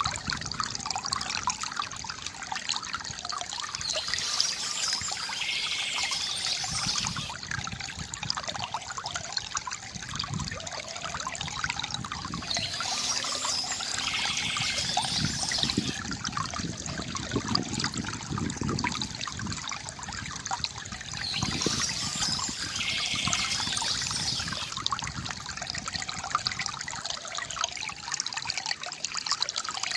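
Water trickling and pouring steadily from a bamboo fountain spout into its basin, with a brighter, hissier passage about every nine seconds.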